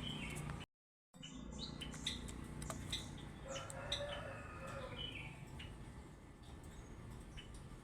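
Birds calling: a scatter of short, sharp chirps and whistles, with a lower phrase around the middle. The sound cuts out completely for a moment about a second in.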